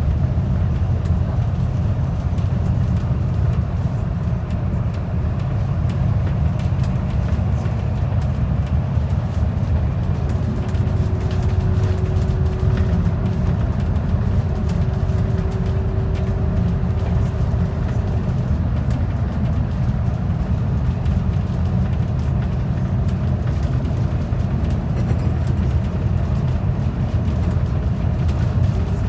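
Steady low drone of a transit bus under way, engine and road noise heard from on board. A faint steady whine rises out of it for several seconds in the middle.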